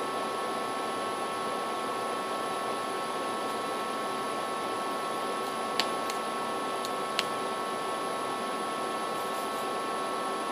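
Steady background hiss with a few faint steady whining tones, broken by two small clicks about six and seven seconds in.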